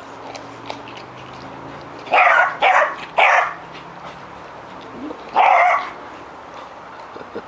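Beagle barking: three sharp barks in quick succession, then one more a couple of seconds later.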